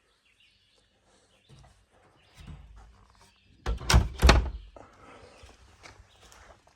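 Wooden outhouse door banging: three loud thuds close together about four seconds in, after some quieter rustling.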